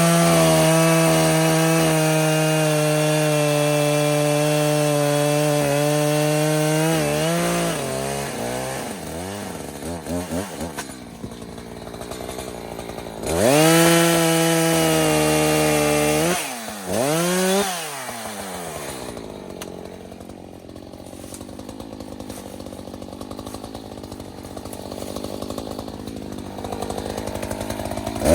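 Echo CS-590 Timberwolf two-stroke chainsaw held at full throttle through a cut for about seven seconds, then dropping back to idle with a few quick blips of the throttle. A second full-throttle cut of about three seconds follows, then a long stretch of idling before it revs up again at the very end. It is cutting a dead, dry, standing-dead tree.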